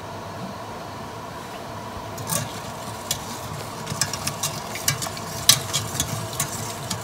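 A wire-mesh skimmer stirring simmering sugar syrup with fruit pieces in a steel pot. It clinks and taps against the pot, first about two seconds in and then many times in quick succession over the following few seconds, over a steady bubbling background.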